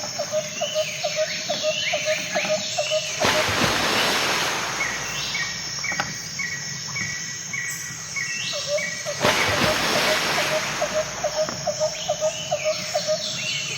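Birds chirping with insects trilling in the background, a rural outdoor ambience. Rapid runs of chirps alternate with a series of repeated higher calls, and a brief rushing noise cuts in twice, about three and nine seconds in.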